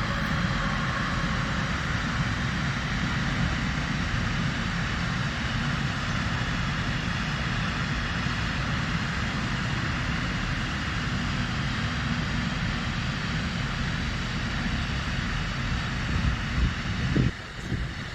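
A train passing at speed on the line: a steady rumble and rush of wheels on rails, which drops away suddenly near the end after a few low thumps.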